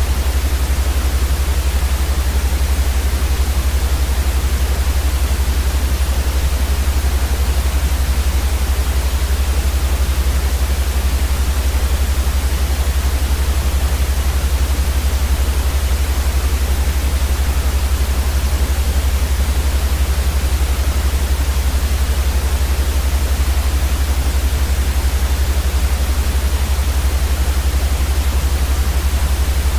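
Continuous white noise: an even, steady hiss across the whole range, with a louder deep rumble underneath that never changes.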